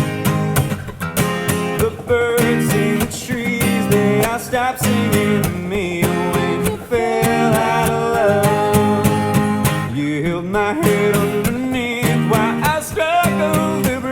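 Acoustic guitar strummed steadily, with a voice singing a drawn-out, wavering melody over it at times.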